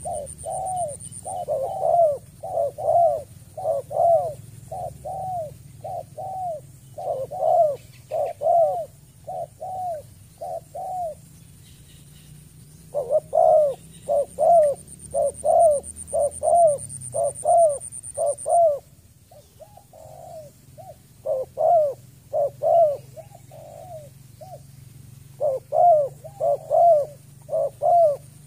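Spotted dove cooing: a long run of short, hoarse, arched coo notes, about two a second, in bouts broken by brief pauses. A faint steady high-pitched whine runs underneath.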